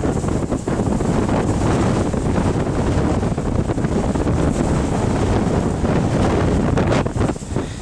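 Gale-force blizzard wind buffeting the microphone in a dense, low rumbling roar that eases slightly near the end.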